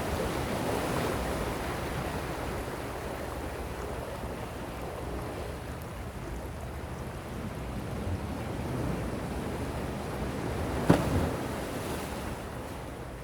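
Gentle sea waves washing ashore: a steady surf hiss that swells near the start and eases off. About eleven seconds in there is one sharp knock.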